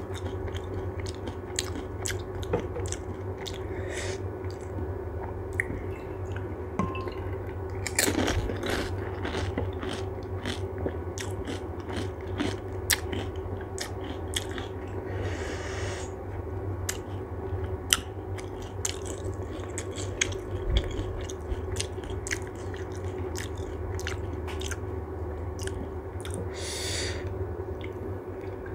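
Close-miked chewing and biting of crisp panipuri (golgappa) shells, with many scattered sharp crunches over a steady low hum.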